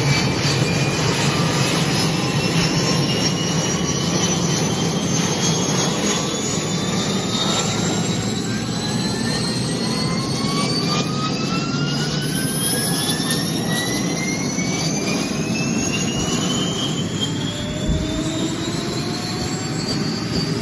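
Helicopter turbine engine spooling up during start: a whine that climbs steadily in pitch, several tones rising together, over a steady low rumble.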